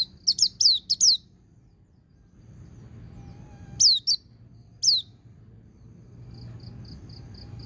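Pleci (white-eye) singing: sharp chirps that sweep downward in pitch. A quick run of four comes in at the start, then a few more spaced out, and near the end a fast, even series of short notes.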